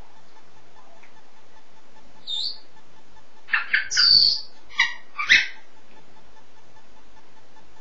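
African grey parrot calling: a single short whistle, then about two seconds later a quick run of several loud whistles and squawky calls.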